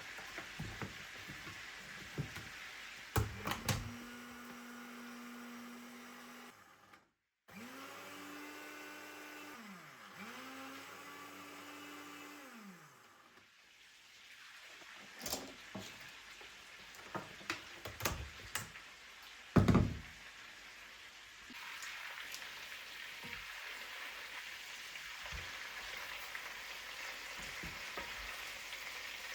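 A small kitchen appliance motor runs steadily for a few seconds, then twice more in short runs that wind down in pitch as it is switched off. Scattered knocks and clatters of kitchenware follow, then a steady hiss.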